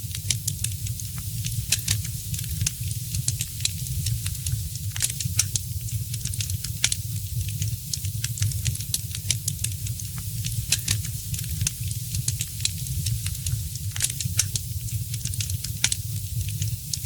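Fireplace fire crackling steadily, with frequent sharp, irregular pops over a constant low rumble.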